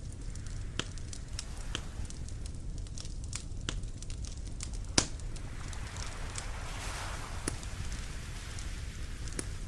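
Campfire crackling, with irregular snaps and pops of burning wood and one sharper pop about halfway through, over a steady low rumble.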